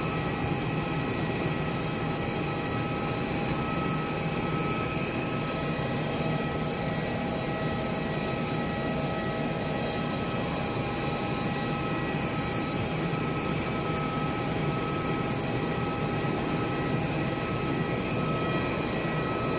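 Jet airliner noise: a steady, unchanging rush with a few high, steady whining tones over it.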